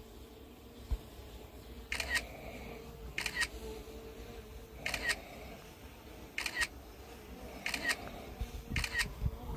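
Walking footsteps, six short crunching steps about one every second and a half, over a faint steady hum.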